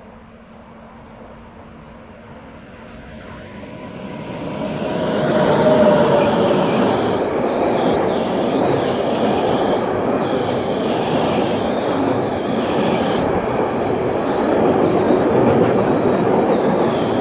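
Intermodal freight train of pocket wagons carrying lorry trailers passing close by at speed. The sound builds over the first few seconds to a peak as the locomotive goes by, then holds as a steady rumble and clatter of the wagons rolling past.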